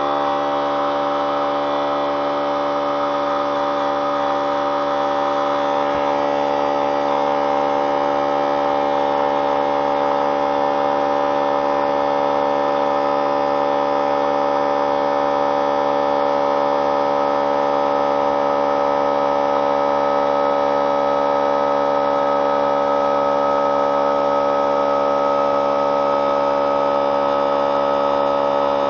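A 3-gallon pancake oilless air compressor running: a loud, steady motor-and-pump drone with an even whine that holds the same pitch throughout.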